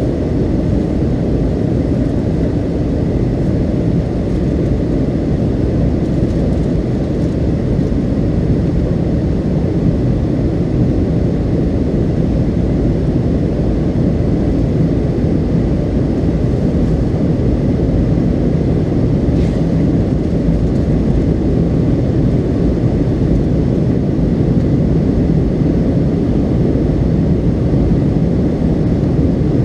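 Steady cabin noise inside a McDonnell Douglas MD-82 airliner in flight: the low rumble of its rear-mounted Pratt & Whitney JT8D turbofan engines mixed with airflow over the fuselage, holding an even level with no change in pitch.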